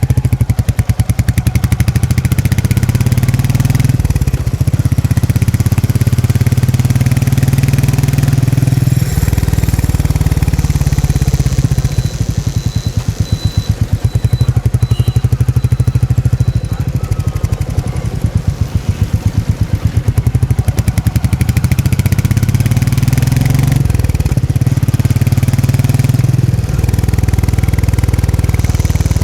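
Royal Enfield Meteor 350's single-cylinder engine and exhaust running at riding speed with a fast, even beat. The engine note dips and picks up again several times as the throttle and speed change.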